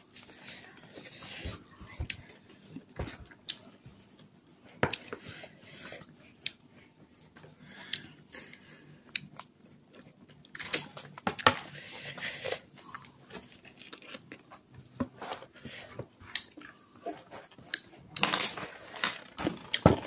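Close-up eating sounds of a person eating rice and chicken curry with her fingers: chewing and mouth smacks, many small clicks, with louder noisy spells around the middle and near the end.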